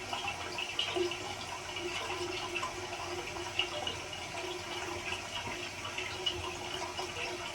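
Steady rush of running water in a small bathroom, with a few faint small ticks over it.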